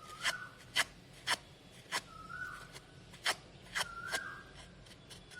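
Crepe paper rubbing and crackling as the sides of a petal are curled by hand, with sharp irregular crinkles about every half second. A short, faint whistle-like tone rises briefly three or four times.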